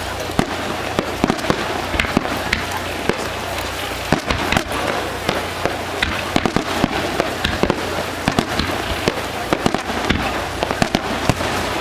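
Aerial fireworks going off in quick succession: a dense run of sharp bangs and crackles, several a second.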